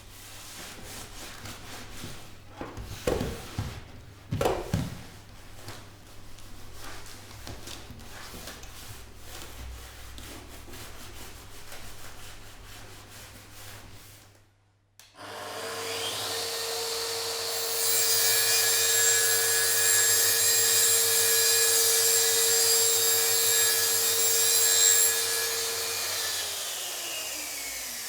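Hand-tool work on wood: repeated rasping and rubbing strokes with two loud knocks early on. Then an electric power tool runs steadily at a high pitch and, near the end, spins down with its pitch falling.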